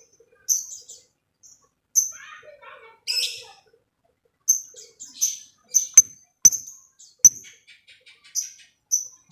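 Lovebirds calling: a string of short, sharp, high-pitched chirps that come faster in the second half. A few sharp clicks and a quick run of small ticks near the end, typical of a lovebird's 'ngetik' ticking calls.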